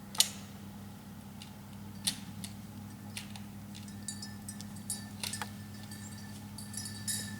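A few sharp clicks and, from about halfway through, light metallic clinking and jingling, over a steady low hum.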